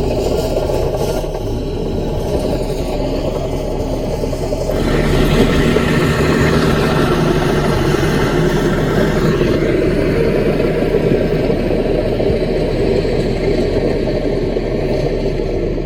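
CAT mini bulldozer's diesel engine running steadily, then working harder and getting louder about five seconds in as it pushes, easing slightly later on.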